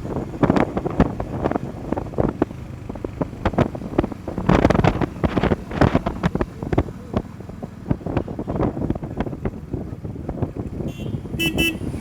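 Wind buffeting the microphone over a low rumble from a moving motorcycle, with a short vehicle horn toot near the end.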